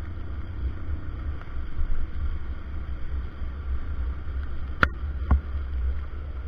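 Wind buffeting the microphone during a motorcycle ride: a steady, fluttering low rumble, with two sharp knocks about five seconds in.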